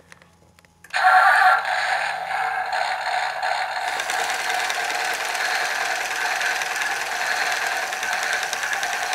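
Toy tractor's push-button engine sound effect: a rattly, chugging engine noise from its small speaker that starts suddenly about a second in and then runs steadily.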